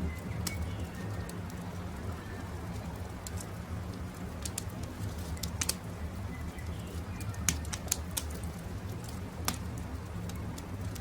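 Wood campfire crackling, with irregular sharp pops over a steady low rumble, while birds give a few faint short calls.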